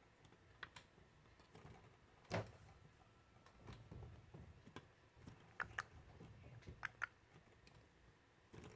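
Ceiling fan running faintly with a low hum, with scattered sharp clicks throughout and one louder knock a little over two seconds in.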